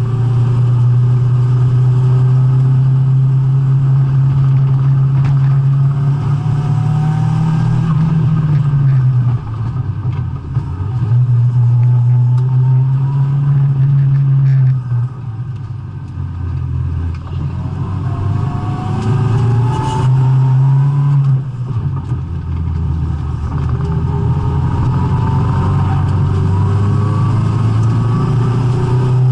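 Nissan 200SX S14's turbocharged SR20DET four-cylinder engine driven hard around a track, the revs climbing steadily under throttle and dropping briefly three times as the throttle is lifted.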